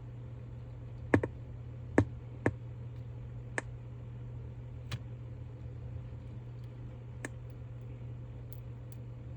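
A handful of short, sharp clicks and taps at irregular intervals, the loudest two in the first couple of seconds, over a steady low hum.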